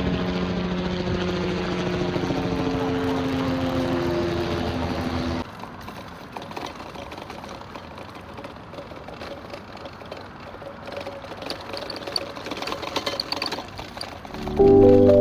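An engine running steadily with an even hum. About five seconds in it cuts off abruptly to a quieter stretch of mixed outdoor noise with scattered small clicks, and music begins right at the end.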